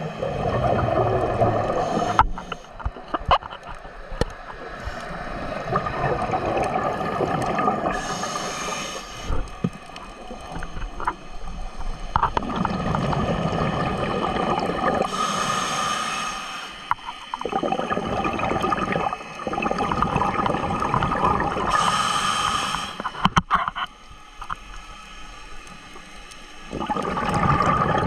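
Seawater sloshing and gurgling around the microphone, surging louder and softer every few seconds, with three short hissing bursts of spray or breaking water about seven seconds apart.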